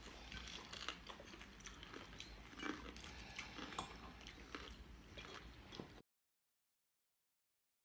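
Faint close-up chewing with soft clicks of a fork against a plate, then the sound cuts off suddenly into dead silence about six seconds in.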